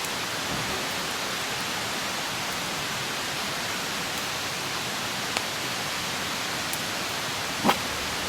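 Wood campfire burning with a steady hiss, broken by a few sharp crackling pops, the loudest one near the end.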